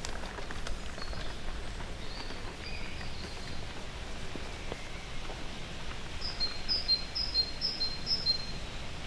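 A songbird singing, near the end a quick series of five repeated high two-part notes, over steady low outdoor background noise.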